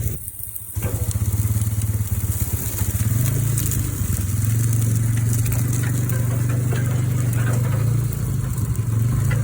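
A vehicle engine running steadily at low speed, its pitch shifting slightly up and down. The sound drops out briefly right at the start.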